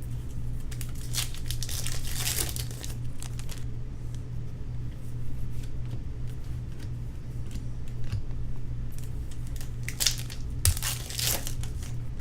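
Plastic baseball-card pack wrappers crinkling and tearing open in rustling bursts, one spell near the start and another near the end, over a steady low hum.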